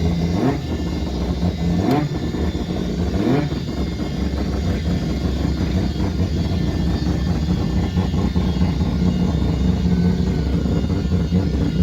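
Car engine revving up briefly three times in the first few seconds, then running steadily at low revs.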